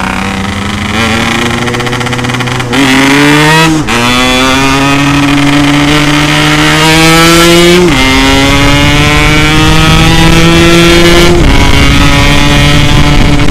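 Yamaha RX-King's two-stroke single running through a loud aftermarket 'setengah dewa' exhaust while accelerating: the engine pitch climbs steadily and drops sharply at each of about four gear changes. The exhaust is described as really loud and still noisy even after holes were drilled in it.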